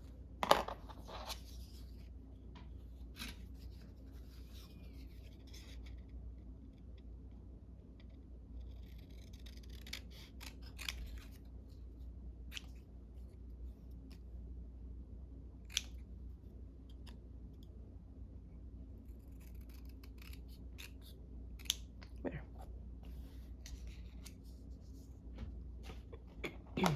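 Scissors cutting paper in short, scattered snips with pauses between, along with small taps and rustles of paper being handled.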